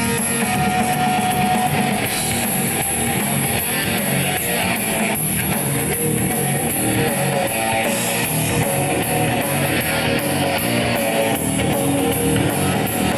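Live punk rock trio of electric guitar, bass and drums playing a fast, loud instrumental intro before the vocals come in.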